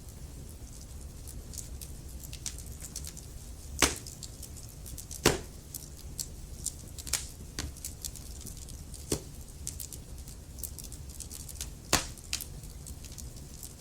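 Burning logs crackling in a fireplace: a steady run of small snaps over a low rumble, with four louder pops about four, five, nine and twelve seconds in.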